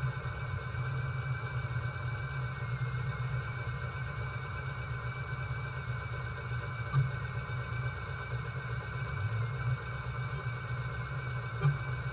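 A car engine idling steadily, with brief louder pops about seven seconds in and again near the end.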